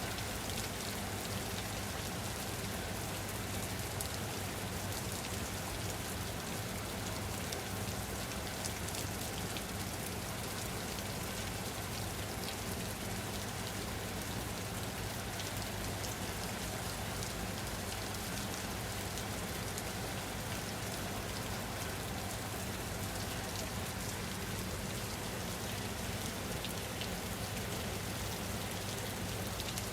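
Steady rain falling, an even hiss with scattered drop ticks and a low steady rumble underneath, unchanging throughout.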